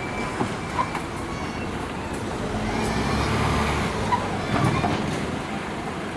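Road traffic: a motor vehicle's engine running and passing close by, its rumble swelling around the middle, over steady street noise with a few short knocks.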